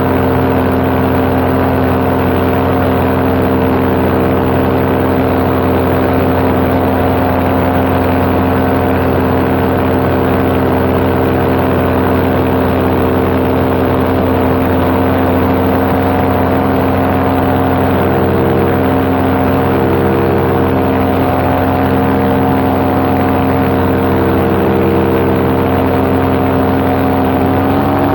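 Paramotor's two-stroke engine and propeller running at a steady cruising throttle in flight, one constant droning pitch, with a change in pitch just at the end.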